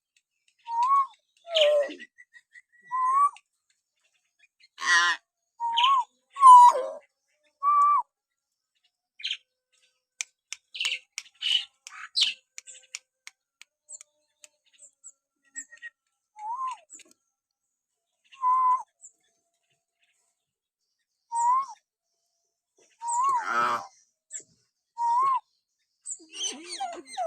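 Hill myna whistling: short separate whistles, each a quick rise and fall, a second or two apart, mixed with a few harsher calls. About ten seconds in comes a run of rapid clicks and chirps.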